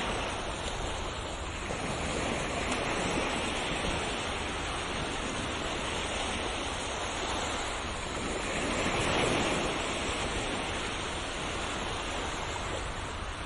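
Ocean waves washing on a shore: a steady surf hiss that swells slowly, with one fuller wave about nine seconds in.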